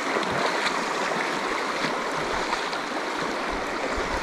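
Steady rushing of a river flowing over rocks, with a few faint light ticks.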